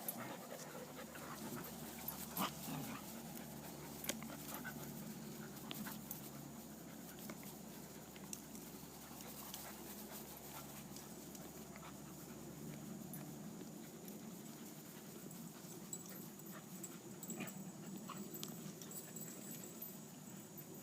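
A dog panting faintly, with a few soft clicks scattered through.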